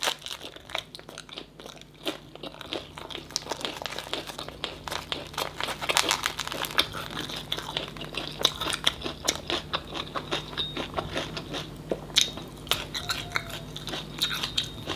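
Chewing a fresh rice-paper roll of lettuce, herbs and stir-fried tôm nhủi: wet crunching and biting in quick, irregular clicks.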